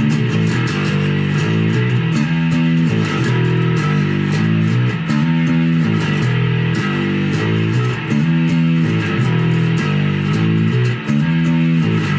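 2024 Epiphone Grabber electric bass played through an MXR Bass Fuzz Deluxe pedal, its humbucker coil-split to single coil, playing a steady, repeating riff of fuzzed notes.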